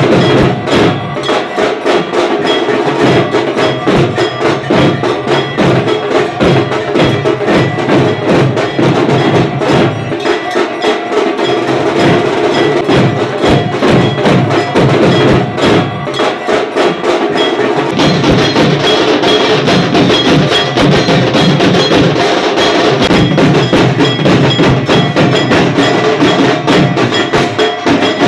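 Rhythmic percussion music, with fast, steady strokes and ringing metallic bell tones over them; it grows brighter about two-thirds of the way through.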